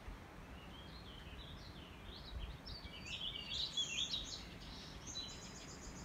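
A songbird singing a long, fast, varied warbling song of high chirps and trills, loudest about halfway through, over a steady low background rumble.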